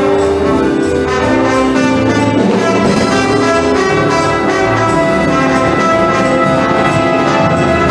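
Wind band playing swing-style music, brass to the fore over a steady beat.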